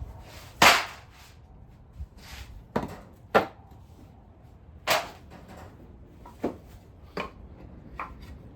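Irregular sharp knocks and clanks, about eight of them at uneven spacing, from tools and parts being handled while setting up to drain an engine's oil. The loudest come near the start and around the middle.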